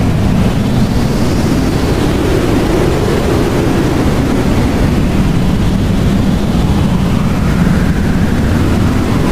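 Blizzard wind blowing steadily with a deep rushing roar, and gusts that whistle, slowly rising and falling in pitch.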